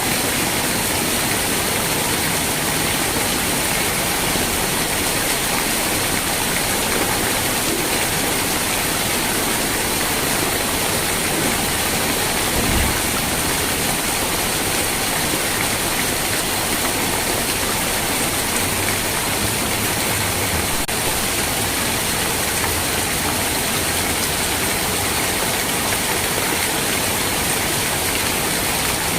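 Steady rain falling as an even, unbroken hiss, with one brief low thump about halfway through.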